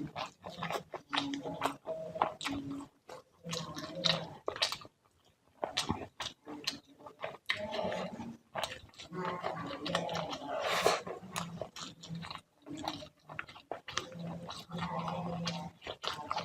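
Close-up chewing and wet mouth sounds of a person eating fish curry with rice, with many irregular smacks and clicks.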